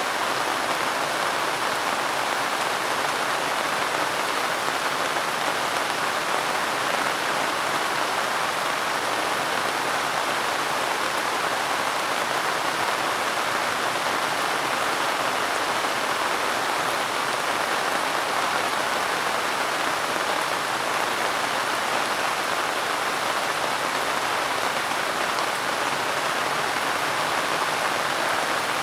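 Steady rain falling and pattering on a surface, an even hiss with no change in strength.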